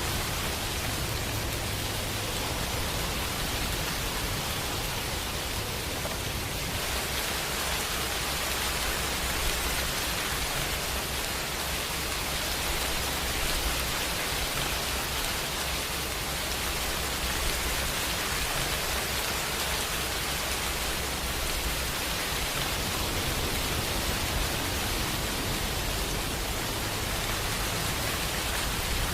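Steady rain falling, an even, unbroken hiss with a low rumble underneath that holds constant throughout.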